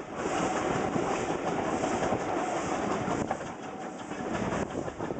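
Steam-hauled passenger train running along the track, its coach wheels clicking steadily over the rail joints, heard from beside a moving carriage.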